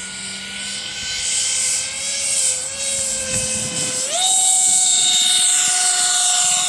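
Electric ducted-fan motors of a radio-controlled CRJ-200 model jet running with a steady whine and a hiss. About four seconds in, the pitch steps up sharply and holds higher as the throttle is opened.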